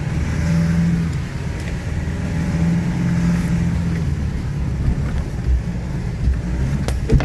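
Off-road vehicle engine running under load through deep ruts, pulling harder twice. Near the end there are a few sharp knocks.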